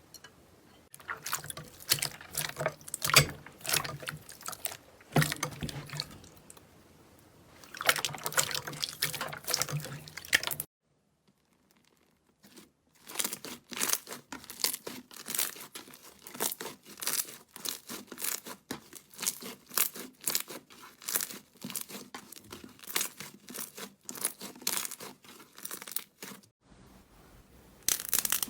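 Slime being squished and pressed by hand: dense wet clicks, pops and crackles, broken by about two seconds of near silence a third of the way through.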